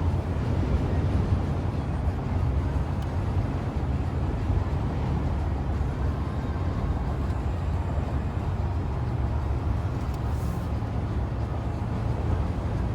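Steady road and engine noise of a car cruising on a highway, heard from inside the cabin: a low rumble with an even hiss above it.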